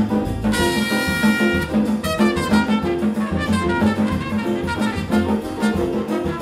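Big band jazz ensemble playing, with a trumpet solo over a low figure that repeats about twice a second. A single note is held for about a second, starting about half a second in.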